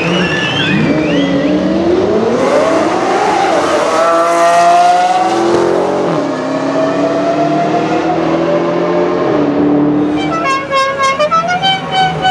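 High-performance car engine accelerating hard, its pitch climbing, then dropping to a lower steady note about six seconds in as it shifts or eases off. Near the end comes a rapid run of short, chopped engine pulses.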